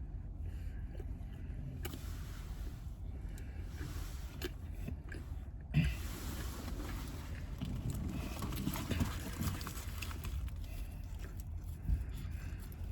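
Handling and rustling inside a car over a steady low rumble: a bump about six seconds in, then a few seconds of rustling and light knocks, and another bump near the end.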